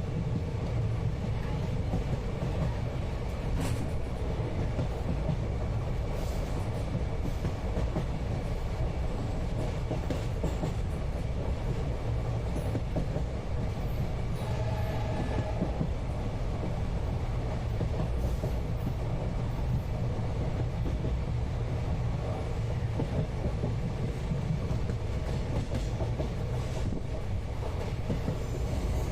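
Moving passenger train heard from inside the coach: a steady deep rumble of the wheels on the rails, with faint occasional clicks and rattles. About halfway through, a brief higher-pitched tone rises above the rumble.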